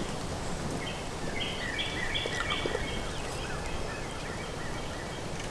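Steady wind noise on the microphone, with a bird calling a quick series of short, high notes from about one second in to about three seconds in.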